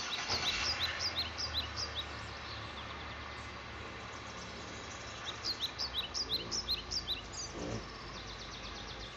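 A songbird singing two runs of quick, repeated downslurred chirps, about four a second, over a steady background hiss.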